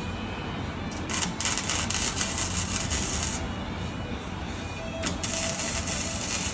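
Two long bursts of hiss from cleaning an engine bay, the first about two seconds long, the second shorter near the end.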